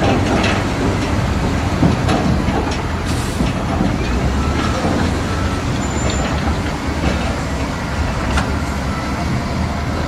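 Heavy diesel construction machinery running steadily, with scattered metallic clanks and knocks.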